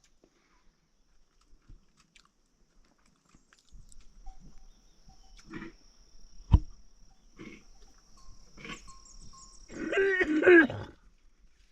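A farm animal calls once near the end, a loud call about a second long with a wavering pitch. Before it come scattered knocks, one of them sharp, and a faint steady high tone.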